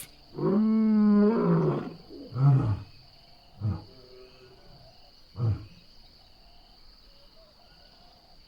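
A lion roaring: one long, deep roar followed by three short grunts that get quieter and further apart, as a roaring bout tails off. Insects trill steadily in the background.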